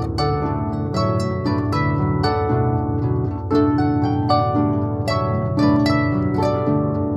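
Instrumental pop music played on harp: a continuous run of plucked notes over held bass notes.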